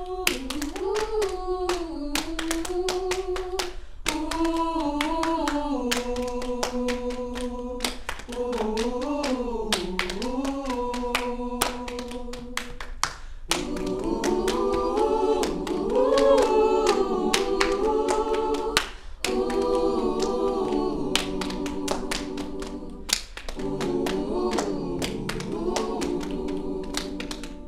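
Student choir singing a cappella, a thinner line of voices at first that opens into full chords about halfway through, with sharp percussive taps keeping time.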